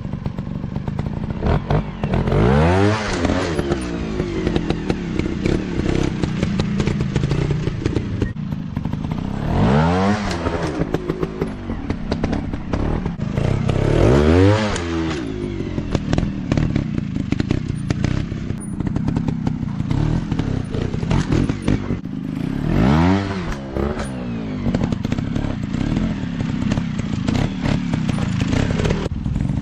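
Dirt bike engine revving up and falling back again and again, about five big rises in pitch as the rider works the throttle over rough ground, with constant clattering and knocking underneath.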